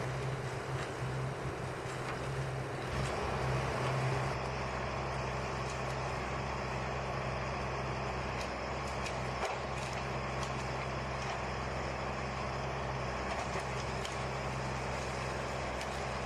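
A heavy machine's engine running steadily, with a few faint clicks.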